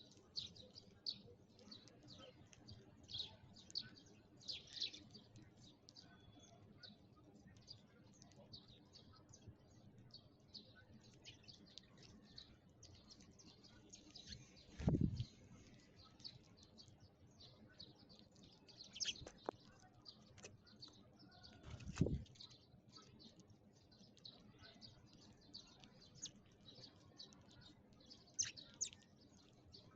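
Sparrows chirping, many short high chirps overlapping without pause. Two brief low thumps come about halfway through and again about seven seconds later.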